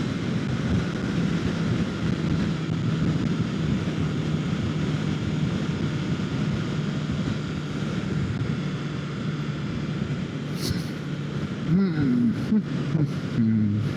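Kawasaki Ninja 650's parallel-twin engine running at a steady cruise, with wind rushing past. Near the end the engine pitch dips and rises a couple of times as the revs change.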